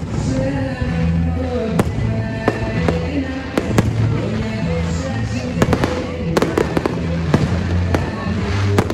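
Aerial fireworks bursting in a string of sharp bangs, scattered at first and coming thicker from about six seconds in, over music with sustained low notes.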